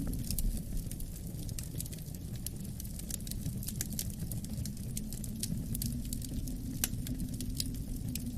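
Wood fire crackling with many small pops and a sharper snap near the end, over a steady low rumble of wind.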